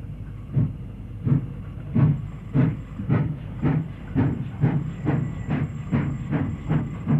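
Steam locomotive exhaust chuffing, the beats coming steadily faster as the engine gets away, over a continuous steam hiss.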